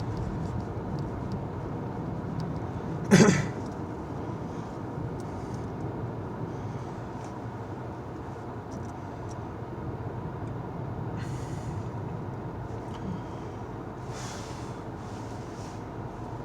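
A car driving through snow: steady engine and road noise, with one sharp thump about three seconds in and brief hisses of snow under the tyres later on.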